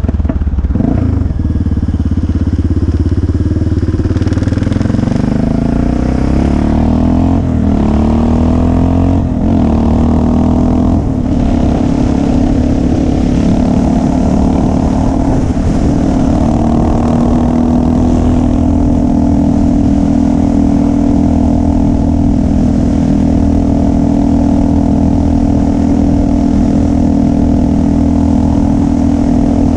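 Motorcycle engine accelerating, its pitch climbing and dropping back through several gear changes, then settling into a steady cruise.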